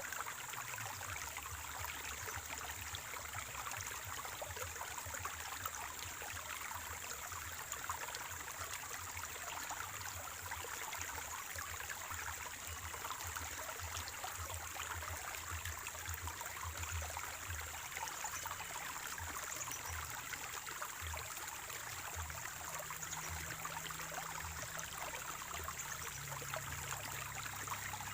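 Water of a small natural spring or stream flowing and trickling steadily over stones, a constant gurgling rush.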